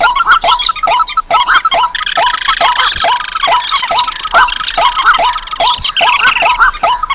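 Recorded bird-lure calls of rice-field and swamp rails and crakes: a rapid series of short, yelping down-slurred calls, about three a second. A fast trilling rattle is layered over it from about two seconds in for a second or so, and again briefly near the end.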